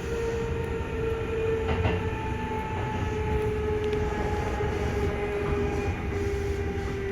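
Kintetsu electric train running, heard from inside the car: low rumble under a steady motor whine that falls slowly in pitch as the train slows for a station.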